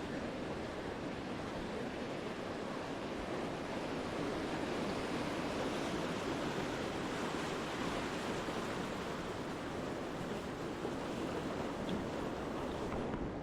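Ocean surf breaking and washing up a beach, a continuous rushing wash that swells a little about four seconds in.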